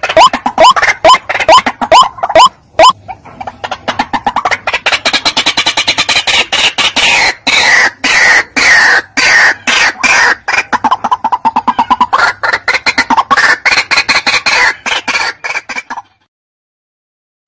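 White-breasted waterhen calls played as a bird lure: a loud train of harsh repeated notes, about three a second at first, then a denser, faster chatter. The calling breaks off abruptly about sixteen seconds in.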